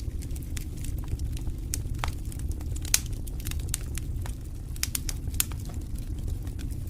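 Wood campfire crackling, with scattered sharp pops at irregular intervals, the loudest about three seconds in, over a steady low rumble.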